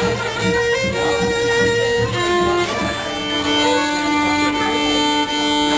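Fiddle playing slow, long-held notes, one of them sustained for more than two seconds in the second half, over low pulses in the first two seconds.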